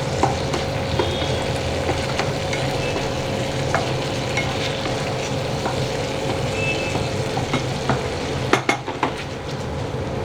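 Vegetables sizzling in a hot frying pan as they are stir-fried with a spatula. Scattered clicks and scrapes of the spatula against the pan run through it, with a short cluster of knocks near the end.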